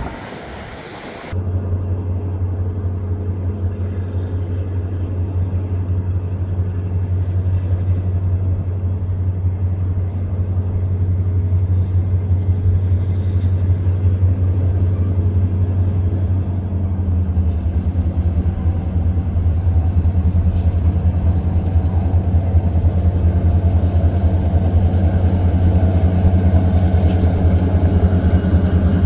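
Steady low rumble of a car being driven, heard from inside the cabin. It starts abruptly about a second in and grows louder partway through.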